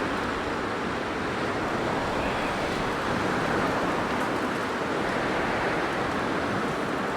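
Blizzard wind blowing steadily, a dense rushing noise that swells slightly about three seconds in.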